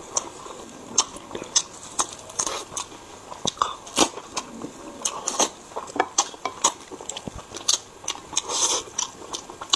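Close-miked eating: a man biting meat off glazed chicken drumsticks and chewing. The sound is a steady stream of sharp, irregular mouth and teeth clicks.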